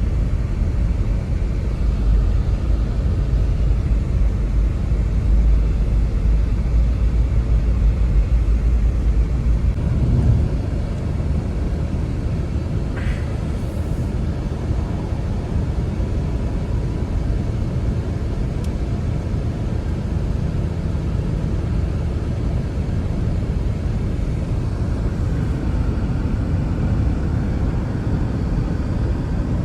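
Blizzard wind blowing as a steady, loud low rumble, easing slightly about a third of the way through.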